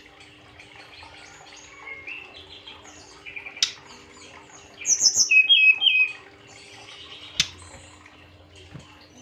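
Fulvous-chested jungle flycatcher (Cyornis olivaceus) singing: scattered short chirps and twitters, loudest in a quick run of high notes about five seconds in. Two sharp clicks cut in, one before and one after the run, over a faint steady hum.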